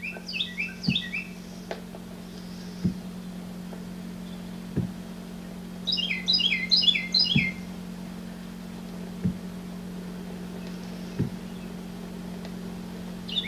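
A bird chirping in quick runs of short falling notes, three bursts about six seconds apart, over a steady low hum and faint knocks about every two seconds.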